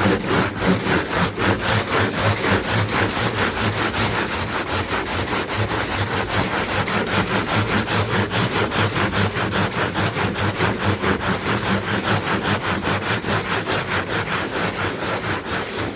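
Sandpaper being rubbed by hand over the painted surface of a truck toolbox in quick, even back-and-forth strokes, several a second, with a scratchy hiss on each stroke.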